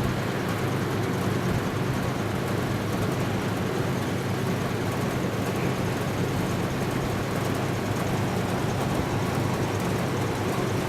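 Steady rushing noise of hurricane wind and rain, with a low hum underneath.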